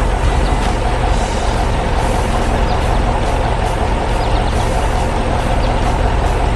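Heavy truck engine running steadily with a deep, even rumble: a cement mixer truck driving in.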